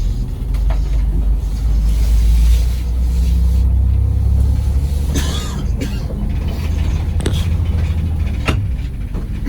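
Charter coach's diesel engine running with a steady low rumble, with a few sharp clicks or knocks in the second half.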